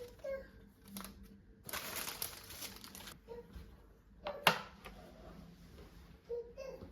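Light handling noises: a few short rustles and scrapes, with one sharp click about four and a half seconds in.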